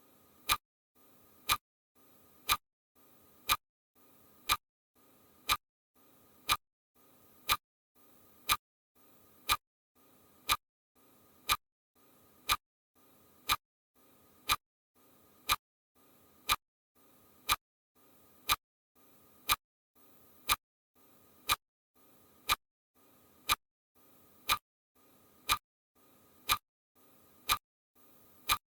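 Sharp ticks at a very steady rate of about one per second, like a clock or metronome, with a faint hiss between them.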